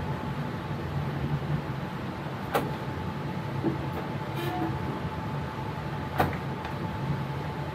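Steady running noise in an electric train's cab on the move: a low hum under a faint, steady whine, with two sharp knocks about two and a half and six seconds in.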